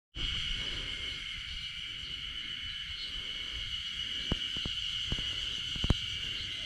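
Steady, continuous insect chorus in the open air, with a few sharp clicks about two-thirds of the way through.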